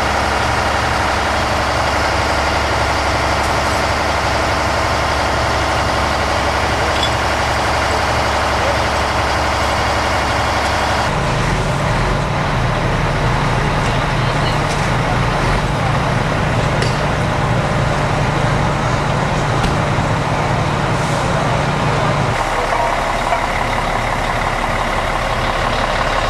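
Fire truck's diesel engine running steadily, its engine note changing about eleven seconds in and again about twenty-two seconds in.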